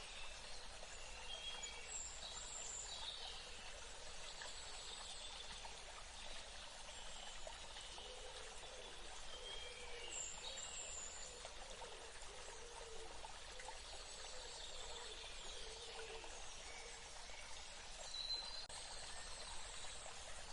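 Steady rush of flowing water, with birds chirping and whistling over it in short scattered calls and a clearer call near the end.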